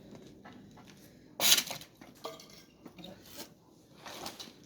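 Pieces of wood clattering and knocking together as they are set down for a bonfire, with one loud clatter about a second and a half in and lighter knocks after.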